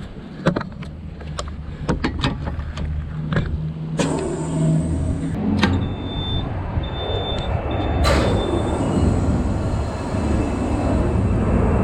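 Car sounds: a low steady rumble with a string of sharp clicks and knocks. About four seconds in a loud rushing noise opens up and grows stronger, joined by a few short high electronic beeps, typical of a door or window being opened and a warning chime.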